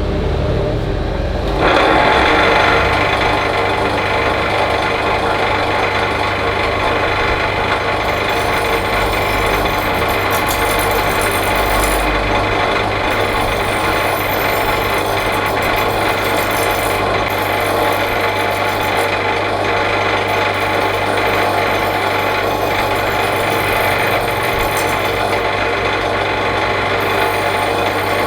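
Electric grinder running, then steel meeting the wheel about a second and a half in and grinding steadily without a break.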